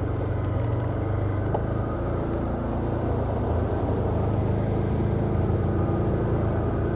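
Can-Am Outlander ATV engine running steadily as the quad crawls through a wet, muddy trail section.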